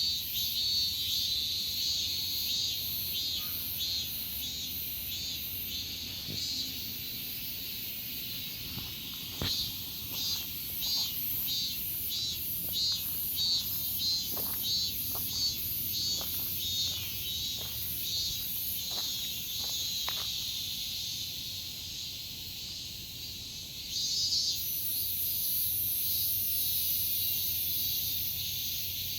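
Cicadas singing in a loud, high-pitched chorus, pulsing about twice a second, then merging into a continuous buzz near the end. Light clicks or taps sound now and then partway through.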